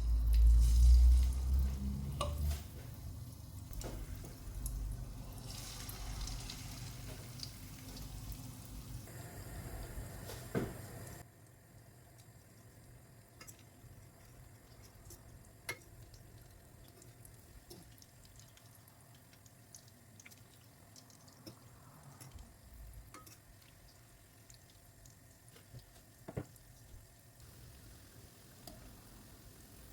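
Cooking oil being poured into a pan, with heavy handling bumps at the start. About eleven seconds in, the hiss cuts off abruptly, leaving a quiet stretch with scattered small clicks.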